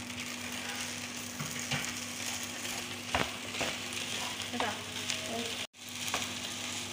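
Fried rice with egg sizzling in a frying pan over a gas flame, with a spatula scraping and knocking against the pan a few times as the rice is stirred. The sound cuts out for an instant near the end.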